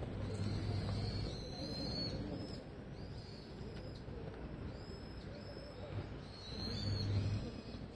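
Shoes squeaking on an indoor court floor: many short, high squeaks in quick irregular succession over a low background hum.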